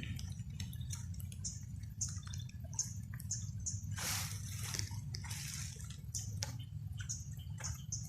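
Floodwater trickling and splashing in small irregular drips and plops as it drains out of a flooded rice paddy, with one louder splash about four seconds in, over a steady low rumble.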